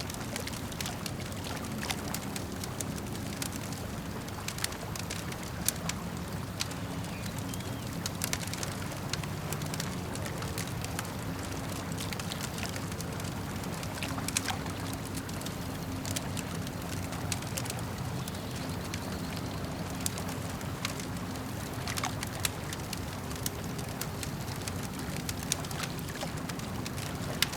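Campfire crackling, with frequent sharp pops and snaps scattered throughout, over a steady low wash of lake water lapping.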